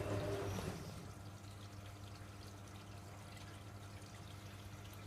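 Hoover Logic A3790 washing machine taking in water through its inlet valve: pouring water with a steady hum, which drops away less than a second in to a quieter trickle of water in the drum.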